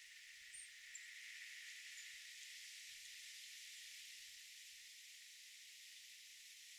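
Near silence: faint steady high hiss of outdoor garden ambience, with two or three tiny high chirps in the first two seconds.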